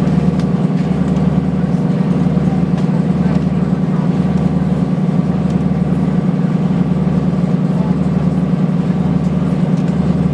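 A river cruise boat's engine running with a steady low drone while the boat is underway.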